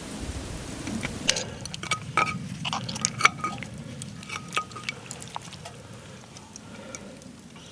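Metal utensil clinking and scraping against metal cookware. The clicks come thickly between about one and five seconds in, several ringing briefly, over a low steady rumble.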